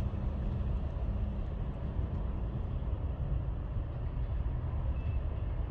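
Jet aircraft engines rumbling steadily at a distance, with a faint steady hum for the first couple of seconds.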